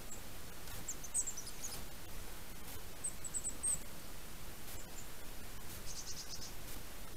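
Small birds giving thin, high calls: short chirps about a second in, another cluster around three seconds, and a quick run of about six notes near six seconds. A steady background hiss runs underneath.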